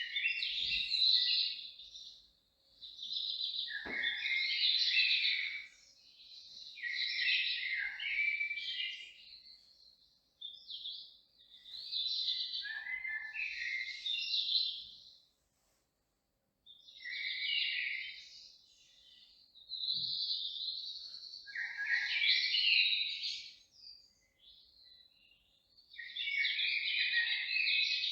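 A songbird singing in bursts of rapid chirping, each phrase lasting about two seconds, with short pauses between, about seven phrases in all.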